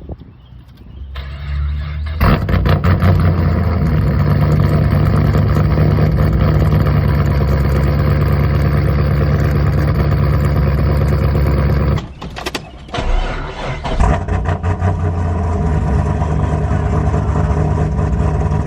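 Cold start of a cammed, straight-piped (muffler-deleted) 2011 Camaro's LS3 6.2-litre V8: the starter cranks briefly, the engine catches with a loud bark about two seconds in and settles into a loud, rough high idle. Around twelve seconds in the sound drops away for about a second, then comes back with a couple of sharp blips and runs on at idle.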